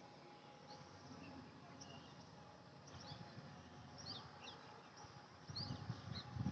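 Small birds chirping faintly now and then, in short high chirps. A low rumble comes in about five and a half seconds in.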